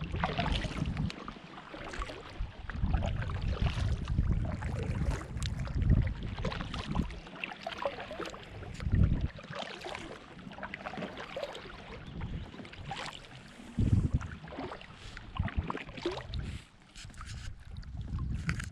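Water splashing and sloshing in irregular strokes, with wind buffeting the microphone in low rumbling gusts.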